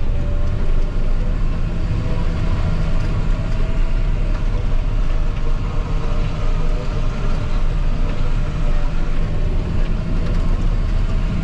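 John Deere 8230 tractor's six-cylinder diesel running steadily while driving on the road: a constant deep drone with a faint steady whine above it. The engine has been stage-tuned for about 30 extra horsepower.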